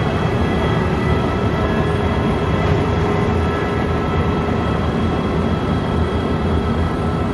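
A steady engine drone with a low rumble and a constant hum, holding one level throughout.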